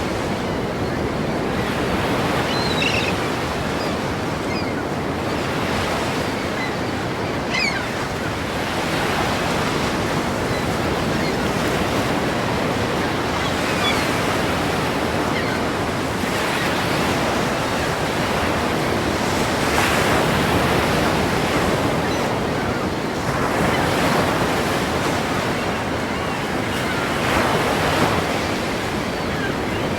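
Ocean surf: waves breaking in a continuous wash of water noise, with swells growing a little louder about twenty, twenty-four and twenty-eight seconds in.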